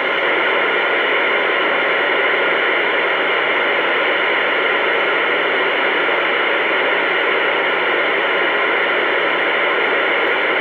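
Loud, steady static hiss over an audio line, confined to the middle of the range, cutting off suddenly just after the end.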